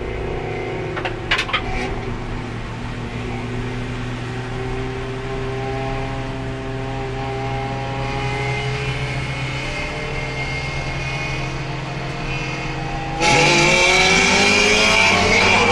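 Race car engine heard from inside the car, running at light throttle with its pitch rising slowly. A few sharp clicks come about a second in. About 13 seconds in it goes to full throttle, suddenly much louder, with the revs climbing. The car is held in 4th gear because the worn-out transmission has no 3rd and won't shift at speed.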